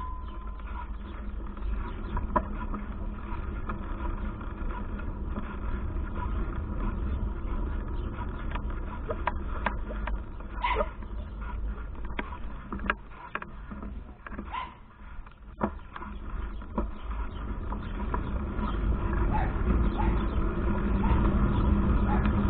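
Wind buffeting the microphone of a handlebar-mounted camera on a moving bicycle: a steady low rumble with scattered clicks and knocks from the bike rattling over the ground. It grows louder over the last few seconds.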